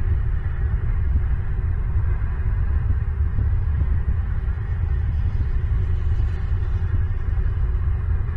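A steady low rumble that flutters unevenly, with no distinct calls or knocks standing out.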